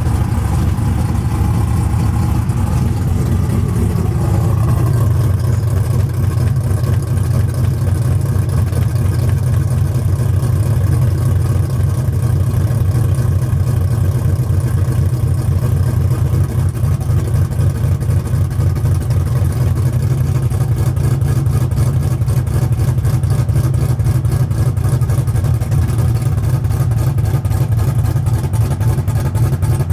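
Cammed Chevrolet Silverado engine idling just after a cold start, with no run in about a week. The fast cold idle settles about five seconds in, then runs on as a steady, pulsing idle.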